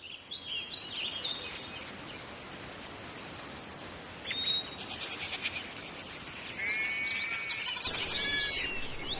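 Birds chirping and calling over a steady outdoor hiss, with short high chirps at the start, a single rising whistle about four seconds in, and a busier burst of several calls in the last few seconds.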